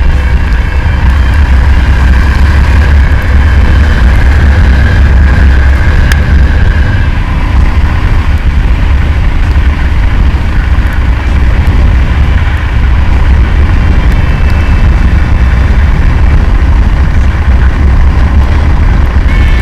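Motorcycle under way, its engine running under a loud, steady low rumble.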